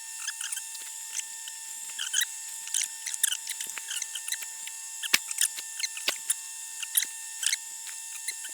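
Irregular short high scratches and light clicks of hand work on a small metal part, with a few sharper ticks, over a steady faint machine whine.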